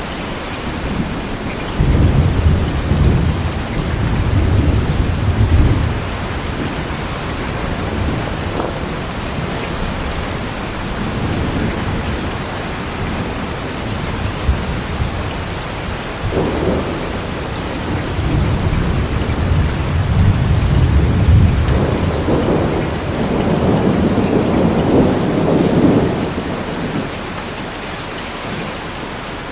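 Steady heavy rain with thunder rumbling twice, first a few seconds in and again for several seconds from past the halfway point, the second roll longer and fuller.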